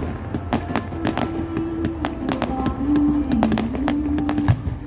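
Fireworks going off close by: ground-fired fountains and low bursts popping and cracking in quick, irregular succession.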